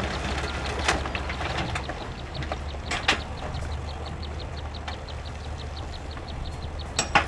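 Heavy earthmoving machine's diesel engine running with a steady low rumble. There are sharp metallic clanks about a second in, about three seconds in and just before the end, and a light, fast ticking of about five a second through the second half.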